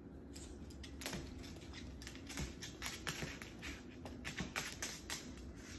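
Moluccan cockatoo working at something with its beak, making a run of quick, irregular clicks and taps that come thicker from about a second in.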